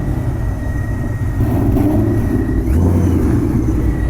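Car engine running with a low rumble, getting a little louder about halfway through.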